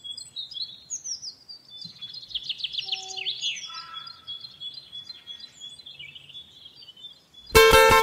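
Birds chirping and singing, with a quick run of falling notes about two to three seconds in. Near the end, loud plucked-string music starts suddenly.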